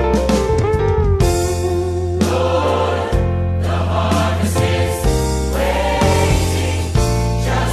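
A choir singing a Christian worship song with instrumental accompaniment and a steady bass.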